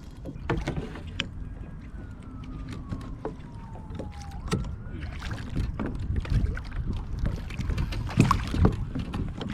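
Irregular knocks and water splashes around a kayak as a large redfish thrashes beside the hull at the end of the fight.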